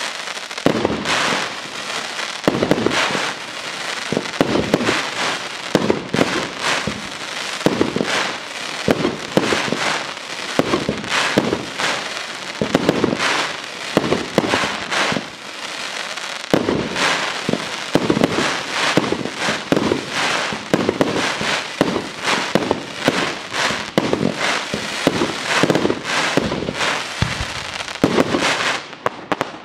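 Fireworks display firing continuously: a rapid, unbroken run of bangs from bursting shells mixed with crackling.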